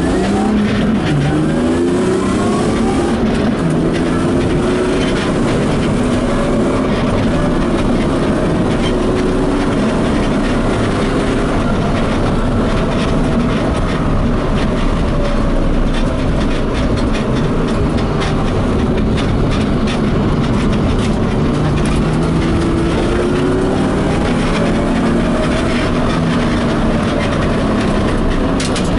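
BMW E36 coupe's engine heard from inside the cabin under hard track driving. It revs up, drops sharply on an upshift just after the start and climbs again, then holds high revs that rise and fall slowly with the corners, over a steady rush of road and wind noise.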